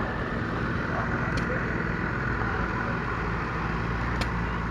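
A vehicle engine running steadily at an even speed, with a couple of faint ticks about a second and a half in and near the end.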